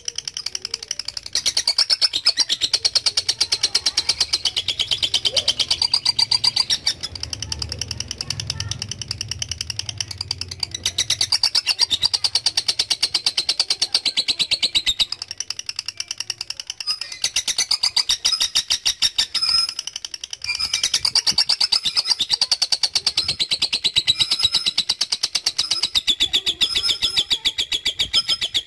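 Lovebird 'ngekek': a long, very fast, high-pitched chattering trill of rapidly repeated notes, in long runs broken by a few short pauses.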